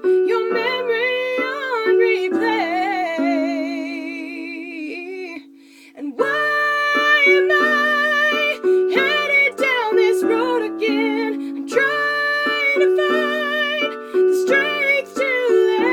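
Music: a female voice singing a slow song over a plucked or keyed accompaniment, with a brief lull about five and a half seconds in.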